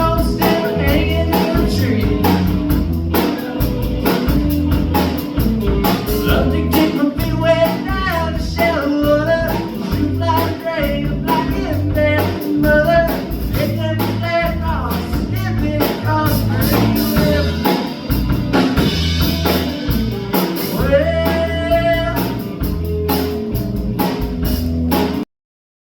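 Live band playing in a bar: a singer over guitar and drum kit, with a pulsing bass line. The music cuts off abruptly about a second before the end.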